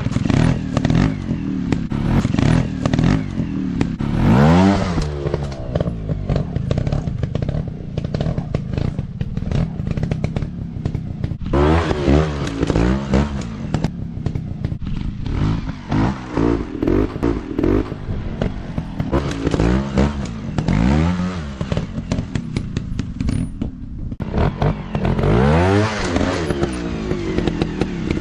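Dirt bike engines running with a constant crackling clatter, revved up and back down several times as the bikes ride.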